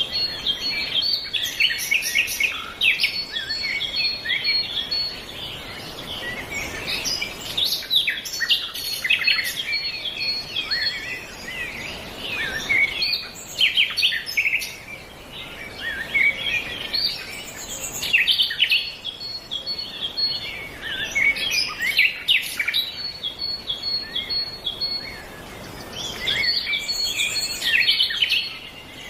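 Woodland birds singing and calling together: a dense chorus of short high chirps and trills that swells and fades every few seconds.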